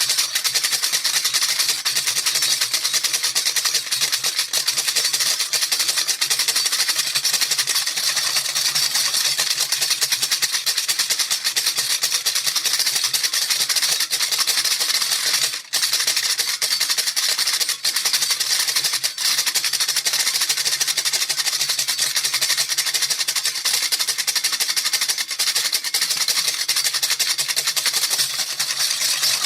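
Baby rattle shaken rapidly and without pause, a fast, even, hissy rattle, with a momentary break a little past halfway.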